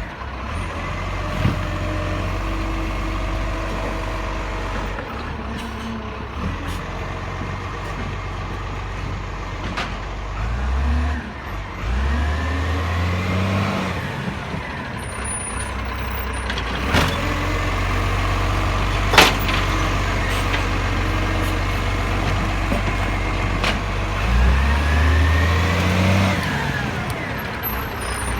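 Garbage truck diesel engine idling, revving up and back down twice, with several sharp knocks, one loud bang about two-thirds of the way through.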